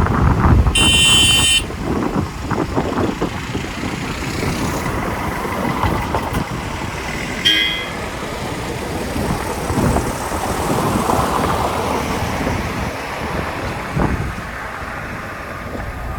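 Vehicle driving with steady road and wind noise, and two short horn toots: one about a second in, the other briefly about seven and a half seconds in.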